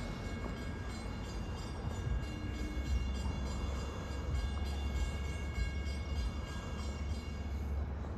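Distant diesel passenger train approaching, heard as a steady low rumble. Several steady high tones ring above it and fade out near the end.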